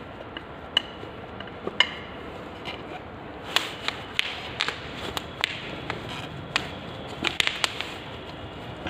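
Metal tools and parts clinking and knocking, a few sharp, ringing taps at first, then a quicker run of about a dozen from about three and a half seconds in.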